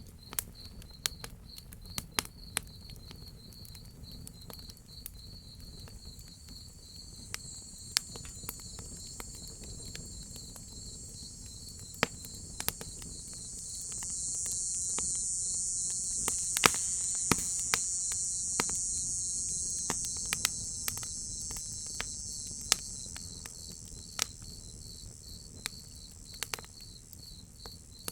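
Crickets chirping steadily in a fast pulsing trill, with sharp pops and crackles from a wood fire scattered throughout. A high cicada buzz swells up about halfway through and fades again before the end.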